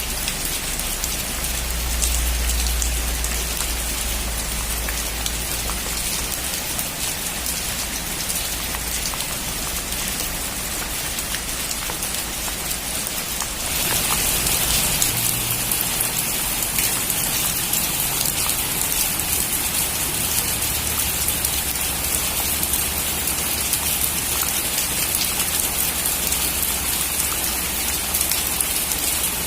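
Heavy rain drumming steadily on a metal roof, a dense patter of drops. It grows louder and brighter about halfway through.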